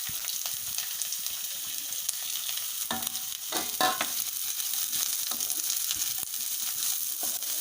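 Garlic, ginger and onion sizzling in hot oil in a kadai, with a steady frying hiss. A spoon stirs them, giving occasional light scrapes and clicks against the pan.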